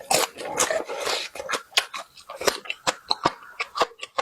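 Close-miked eating: wet chewing and mouth smacking, heard as many quick clicks, with a longer noisy stretch in the first second or so.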